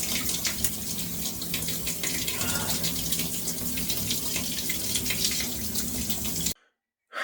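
Shower running, a steady spray of water, which stops abruptly near the end.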